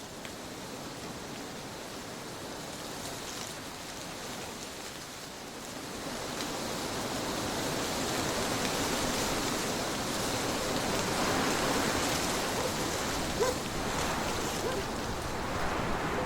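Trade winds blowing in a steady rush that swells about six seconds in and then holds stronger, with one brief sharper gust-peak later on.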